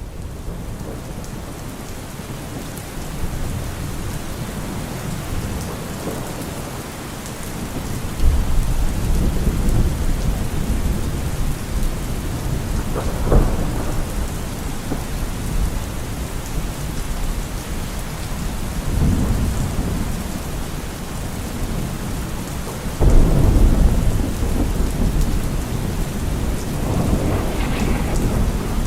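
Steady heavy rain falling, with rolling thunder rumbling through it: deep rumbles break in about eight seconds in and again near the end, the second the loudest.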